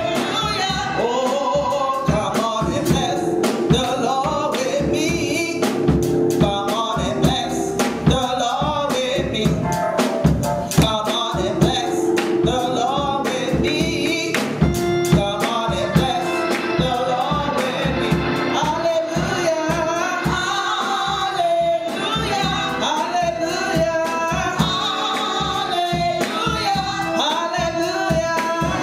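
Gospel worship song: voices singing with a band behind them, with drum hits throughout.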